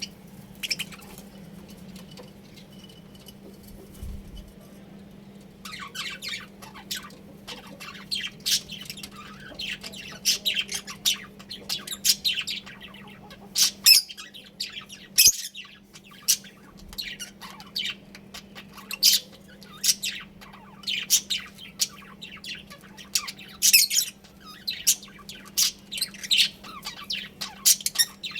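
Budgerigars chirping and chattering in rapid, overlapping high calls. The calls are sparse at first and turn busy about six seconds in. A steady low hum runs underneath.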